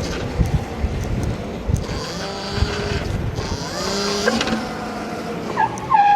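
Wind buffeting the helmet-cam microphone while riding an electric dirt bike on a city street, heard as low, uneven thumping rumble. About four seconds in, a pitched whine rises briefly, like the bike's electric motor spinning up. Near the end there is a short wavering high tone.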